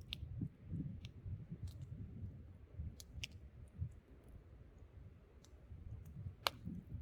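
Wood campfire crackling, with scattered sharp pops and the loudest one near the end. Underneath is a low, steady rumble of wind.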